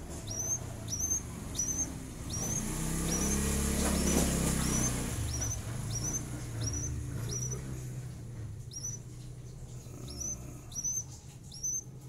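A bird chirping: a short, high, upward-sweeping chirp repeated about twice a second. A low rumble swells and fades in the middle.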